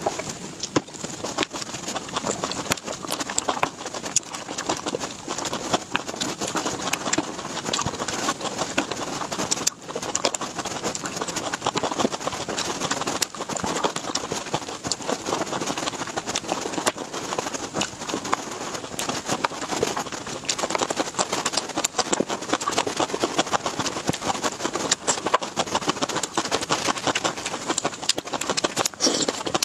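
Eating sounds: a steady, dense run of wet bites, crunches and chewing as cherry tomatoes and cucumber slices are eaten.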